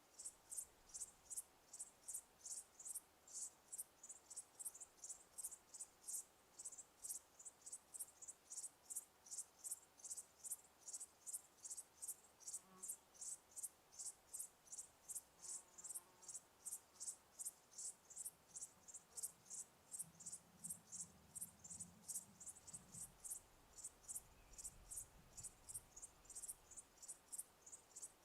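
Crickets chirping in a steady, even rhythm, about two to three high-pitched chirps a second.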